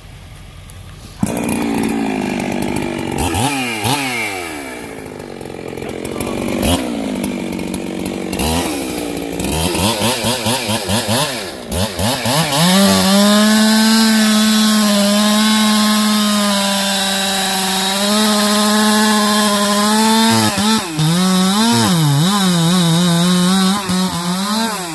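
Two-stroke chainsaw started about a second in and revved up and down a few times. From about halfway through it runs at a steady, held speed for around eight seconds, typical of a saw cutting through the trunk of a big maple, then revs up and down again.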